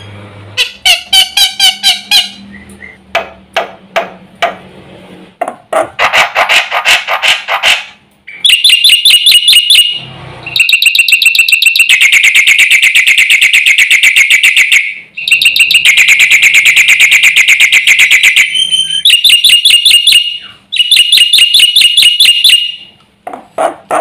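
Black-winged myna singing loudly in long runs of rapid, repeated harsh notes, with a few short breaks between phrases.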